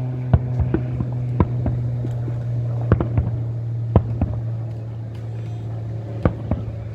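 Fireworks and firecrackers going off, about a dozen sharp pops at irregular spacing, the loudest early on and around the middle. A steady low hum runs underneath.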